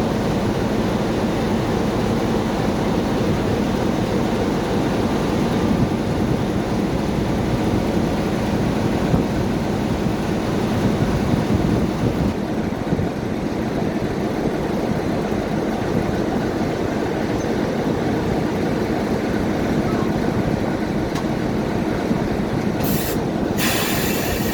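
Steam locomotive 45149 with its train, making a steady rumble of running gear and rail noise as it moves slowly.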